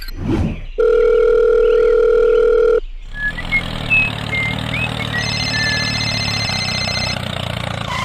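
A quick whoosh, then a steady telephone dial tone for about two seconds that cuts off sharply. Then a small tractor engine runs steadily, with a few short high chirps over it.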